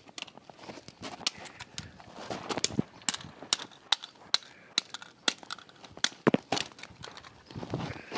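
Irregular sharp knocks, cracks and crunches of a plastic camera being bashed and smashed, several hits a second at times.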